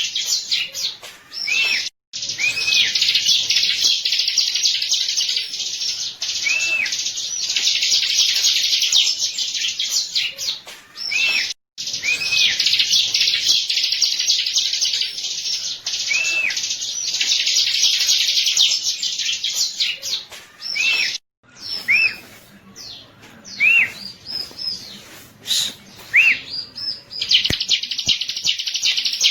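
Bar-winged prinia (ciblek) singing: long runs of rapid, shrill chattering laced with repeated arched whistled notes, cut by three brief silences. In the last several seconds the song breaks into sparser, separate notes.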